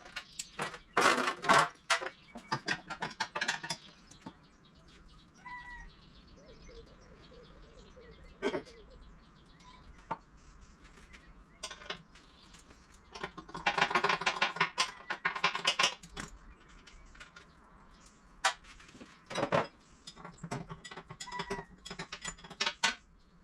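Irregular clicking and clattering, like hard objects knocking together, coming in several bursts with quieter gaps between. A brief high squeak or chirp sounds twice.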